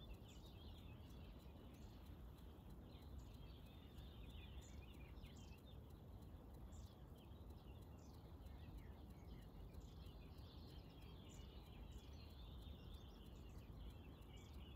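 Faint bird chirping: many short, high calls scattered throughout, over a steady low rumble of ambient noise.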